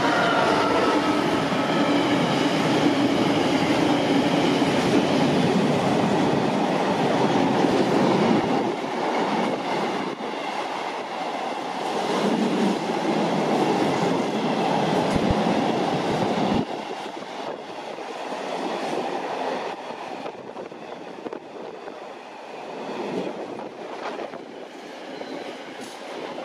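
A train passing along the line, loud for the first several seconds, then dying away, with a sudden drop in level about sixteen seconds in and a fading tail.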